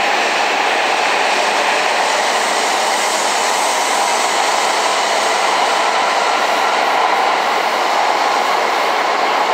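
Coupled E5 and E6 series Shinkansen train pulling out past the platform: a steady rolling rush of wheels on rail and running gear.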